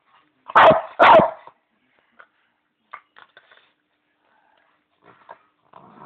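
Small Bichon dog giving two short play barks about half a second apart, followed by a few faint ticks and taps.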